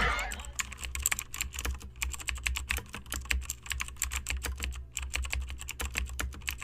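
Rapid, irregular clicking, several clicks a second, over a low steady hum.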